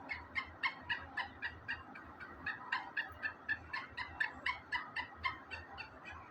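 A bird giving a long run of short, repeated calls, about three or four a second.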